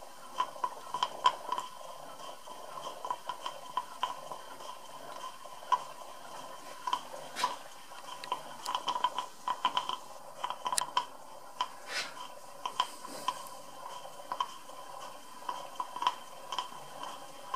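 A brand-new Perseus model steam engine running on steam from a Stuart 501 boiler, still stiff and being broken in. It makes many irregular light clicks and ticks over a faint steady tone.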